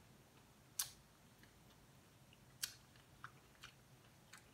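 Close-up mouth sounds of eating corn on the cob: a few sharp, crisp smacks and clicks, one about a second in and four more in the second half as the cob is bitten, over near silence.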